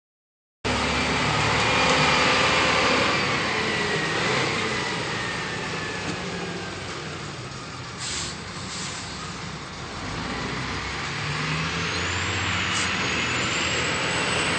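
Heavy truck engine running: loud at first, fading away through the middle, then building again near the end as a vehicle comes closer.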